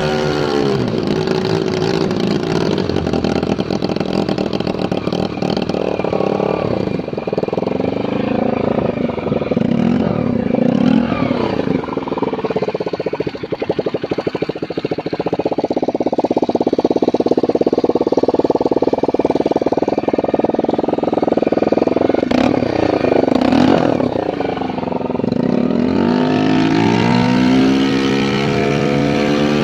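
Freshly tuned-up motorboat engine running under way, its pitch falling and rising several times as the throttle is eased and opened, with a steady stretch at constant speed in the middle.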